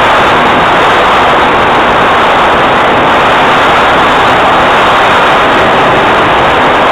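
Loud, steady drone of a Cessna 182's piston engine and propeller, mixed with rushing air, heard from inside the cabin.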